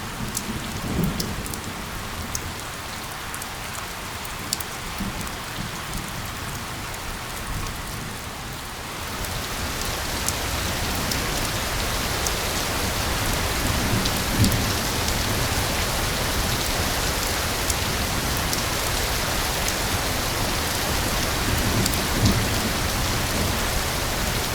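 Steady rain falling on a surface, with scattered sharp drop ticks; it grows heavier and fuller about nine seconds in. A few brief low rumbles come and go.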